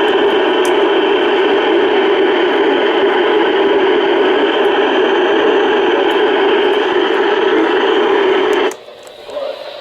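Loud, steady radio static hiss from a weather radio receiver, with no voice or tones in it. It cuts off suddenly near the end.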